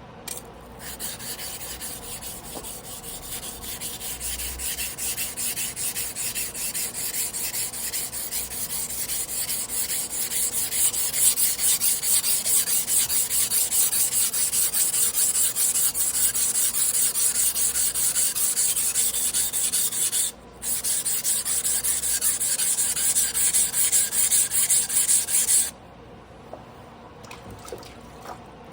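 A Damascus carbon-steel sashimi knife blade being rubbed back and forth on a whetstone by hand in quick, even strokes: hand sharpening. The strokes pause briefly about two-thirds of the way through, then resume and stop near the end.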